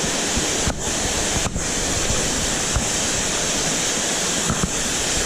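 Waterfall rushing, a steady noise of falling water.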